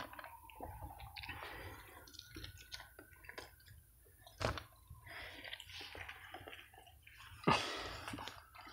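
A person chewing fried chicken and chips, with many small irregular mouth clicks. There are two louder knocks, one about four and a half seconds in and one near the end.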